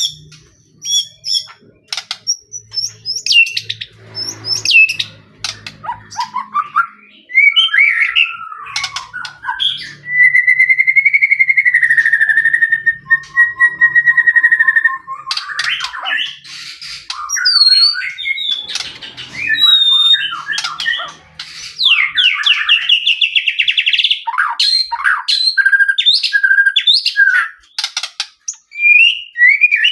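White-rumped shama singing vigorously: a varied run of sharp clicks and gliding whistles, with one long held whistle near the middle and a fast trill about two-thirds of the way through.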